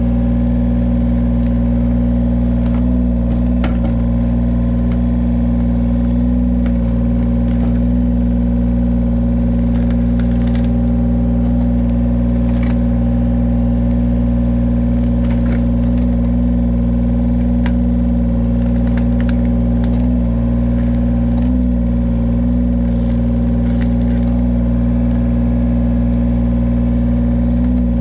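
Engine of a firewood-splitting machine running steadily, its pitch dipping slightly a few times, with faint scattered clicks and knocks over it.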